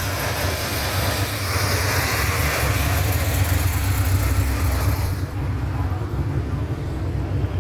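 A car engine idling with a steady low rumble, under a hiss of outdoor noise that drops away about five seconds in.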